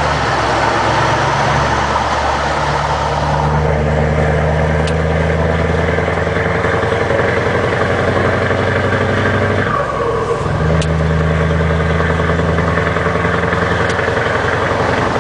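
Scania 164 480 truck's V8 diesel engine running steadily and loudly, with a brief dip in the engine note about ten seconds in before it picks up again.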